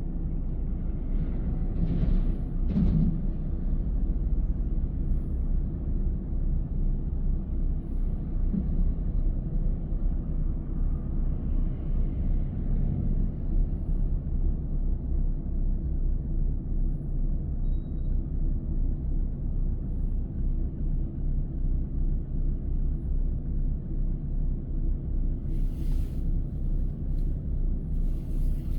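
Car driving along a road: steady low rumble of tyres and engine, with a couple of brief louder bumps about two to three seconds in and two short swishes near the end.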